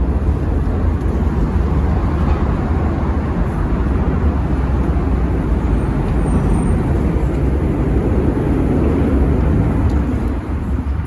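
Road traffic passing close by: a steady, loud rumble of cars and heavier vehicles.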